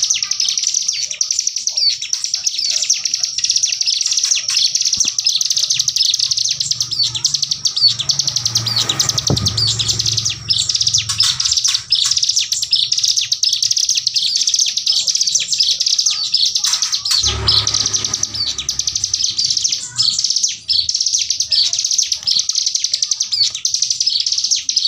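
Ciblek gunung prinia singing a continuous, very rapid machine-gun-like rattle of high chirping notes (a 'tembakan bren' burst). A low rumble sits under the song twice, about a third of the way in and again past the middle.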